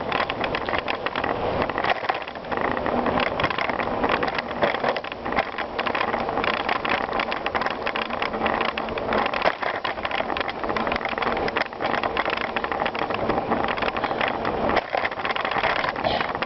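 Bicycle being ridden over a rough surface: continuous crunching and rattling from the tyres and bike, with many small clicks and knocks.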